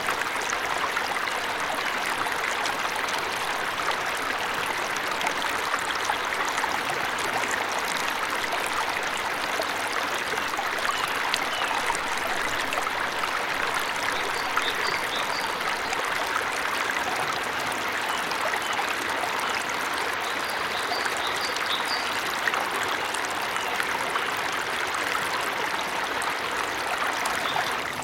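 Waterfall in a forest: a steady, continuous rush of falling water, with a few faint high chirps about halfway through.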